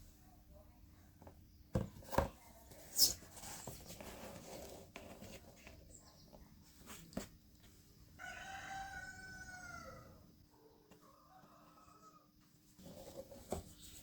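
A drawn-out animal call, about two seconds long with a slightly falling pitch, about eight seconds in, after a few sharp knocks and taps in the first few seconds.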